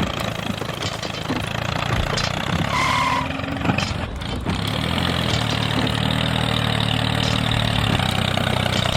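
Small motor of a model tractor running steadily. A short high tone sounds about three seconds in.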